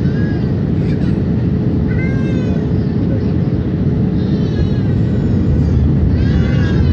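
Steady cabin noise inside an Airbus A321 on approach: a deep, even rumble of airflow and engines with a faint steady hum. A few short high-pitched vocal cries from a passenger rise and fall over it, about two, four and six seconds in.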